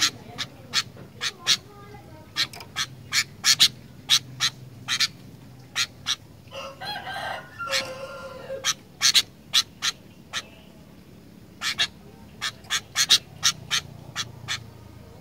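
Sooty-headed bulbul calling: many short, sharp notes in irregular runs, with one longer warbling phrase about halfway through.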